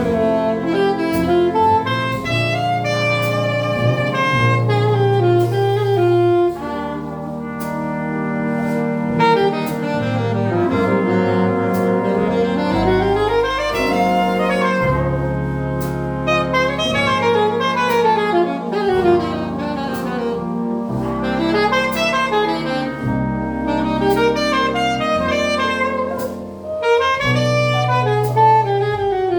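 Jazz octet playing: a saxophone carries quick melodic runs that rise and fall, over a walking double bass and drums with cymbal strokes.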